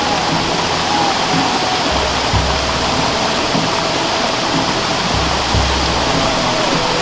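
Steady rush of flowing water under soft, slow meditation-style music: a thin sustained melody line gliding between notes, with low bass notes entering about every three seconds.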